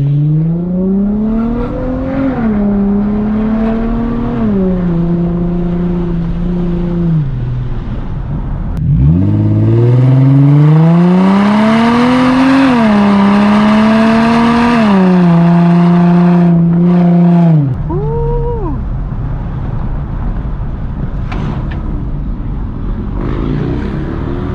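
2004 Infiniti G35 coupe's V6 with a muffler delete, accelerating hard twice. Each time the exhaust note climbs with the revs, drops at an upshift, climbs again, drops once more and holds steady. The second, louder pull cuts off suddenly about 17 seconds in when the throttle is lifted, leaving quieter coasting and road noise.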